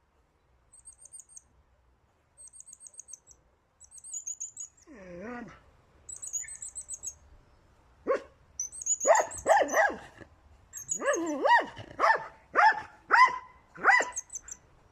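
High, quick chirping trills, then a dog gives a falling whine and barks repeatedly, about a bark a second, in the second half.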